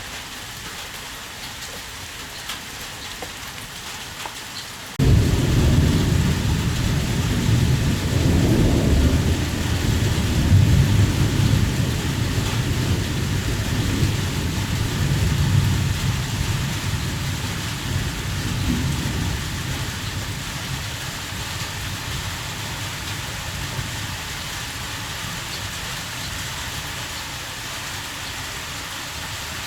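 Heavy rain falling steadily, with a deep roll of thunder that breaks in suddenly about five seconds in and slowly rumbles away over the next fifteen seconds or so.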